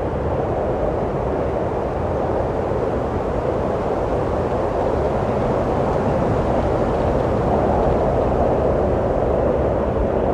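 Steady rushing wind, a low, dull roar that swells slightly a little past the middle.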